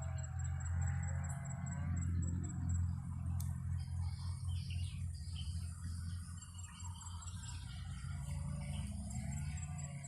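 Strong wind rumbling on the microphone, with small birds chirping and an insect trilling at a high pitch now and then. A drawn-out pitched sound fades out about two seconds in.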